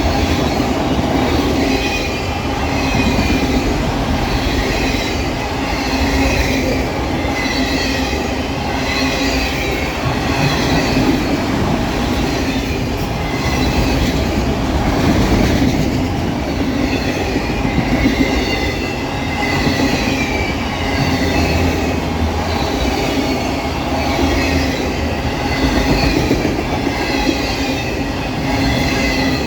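Freight train of empty autorack cars rolling steadily past: continuous rumble of steel wheels on rail with a light, recurring wheel squeal.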